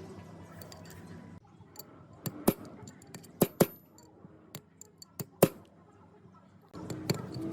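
Metal gearbox parts being handled: a string of sharp metallic clinks and knocks, some loud, with quiet gaps between them.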